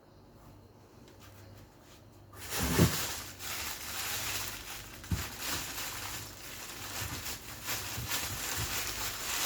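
Plastic bags of frozen food rustling and crinkling as they are handled while the fridge is emptied, with a thump a few seconds in and a sharp knock about halfway through as packages are set down.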